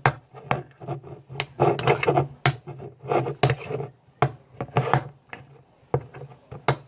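Irregular clicks and knocks of a utensil against a plastic or glass container, with short stretches of scraping, as a soap-and-food-colouring slime mixture is stirred and handled.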